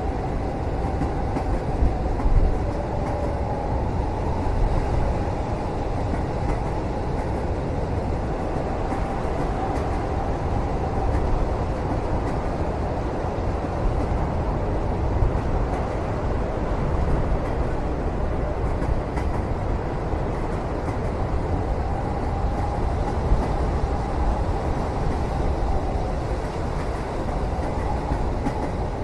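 Steady deep rumble of a moving passenger train heard from inside a cabin, with a faint wavering whine above it and a few light knocks.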